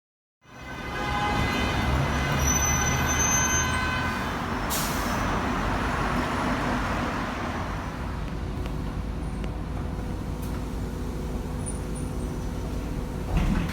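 BYD K9A battery-electric city bus running, with a steady rumble of road noise. For the first few seconds a whine of several steady tones sits over the rumble, and about five seconds in there is a short hiss.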